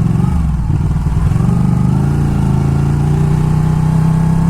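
Sport bike engine running while riding. Its pitch dips about half a second in, climbs again, then holds steady.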